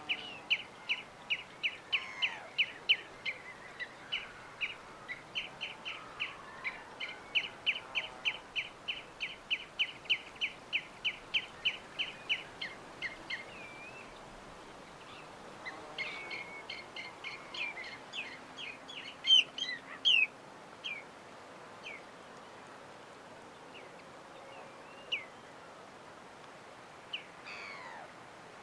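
A bird chirping rapidly and steadily, about three short chirps a second, for the first half. After a short pause a second run of chirps follows, then only scattered single calls over a steady background hiss.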